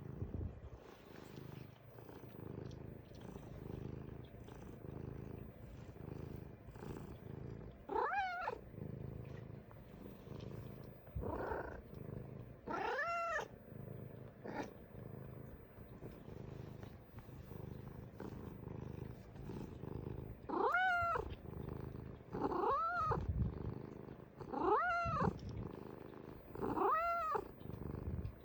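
Domestic cat purring steadily, with short meows over the purr, each rising then falling in pitch: a few in the first half and a run of four or five about two seconds apart near the end. The purring and chatty meows are the sound of a content cat.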